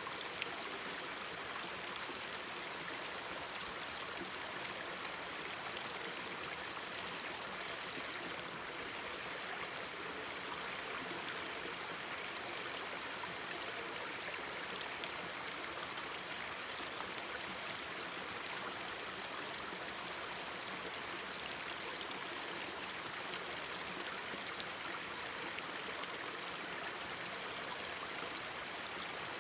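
Mountain stream babbling steadily, with a few sharp crackles from a wood campfire, the loudest just after the start.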